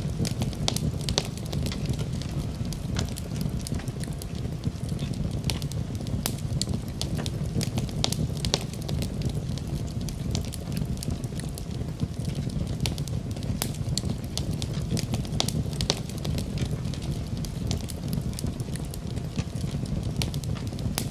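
Wood fire burning in a fireplace: a steady low rumble of the flames with frequent sharp, irregular crackles and pops from the burning wood.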